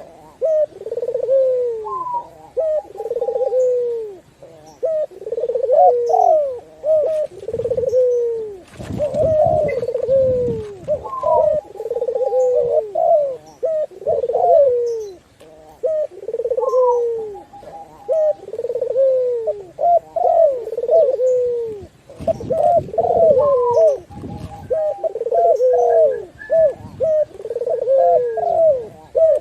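Several doves cooing over one another in repeated falling coo phrases, a mix of zebra dove, spotted dove and Barbary dove. A low rumble rises under the calls twice.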